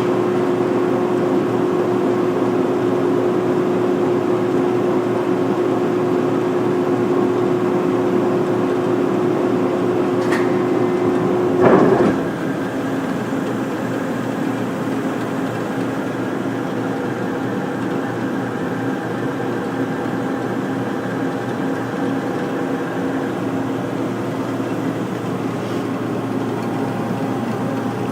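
Mori Seiki SL-8 CNC lathe running under power with a steady whine. About twelve seconds in, a clunk sounds and the whine stops, leaving a lower steady machine hum.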